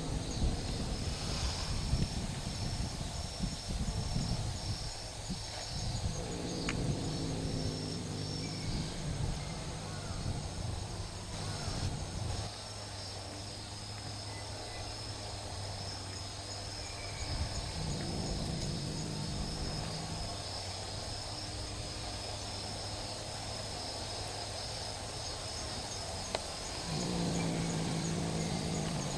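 Stray cats growling low at each other in a standoff: several long, drawn-out growls, a few seconds each, with the loudest near the end. Insects chirr steadily throughout.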